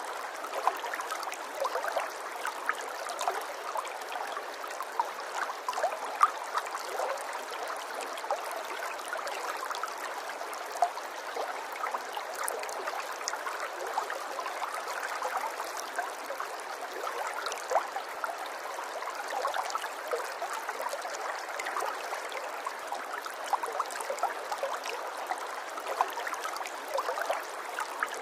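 Running water trickling and gurgling steadily, with many small splashes and bubbles popping through it.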